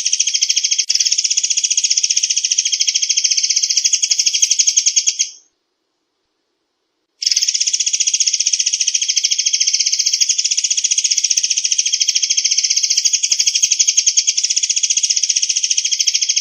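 Recorded call of the murai air bird: a long, very fast, high-pitched rattling trill used as a lure and training sound. It stops about five seconds in, falls silent for nearly two seconds, then starts again.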